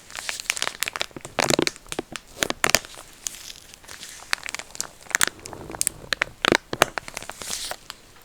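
Crinkling and crackling of a soft plastic wipes packet handled close to the microphone, in irregular clusters of sharp crackles.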